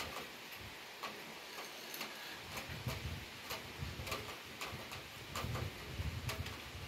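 Steady rain hiss with irregular sharp ticks of drops striking a hard surface, a few each second.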